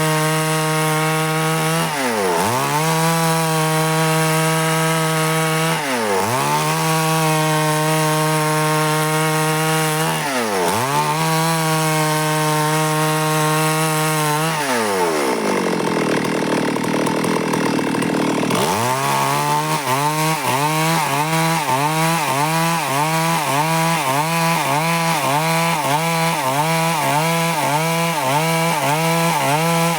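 Two-stroke Stihl chainsaw running at high speed, with three short dips in engine speed. About halfway through it drops to idle for a few seconds, then revs back up and runs on with quick, regular surges in speed.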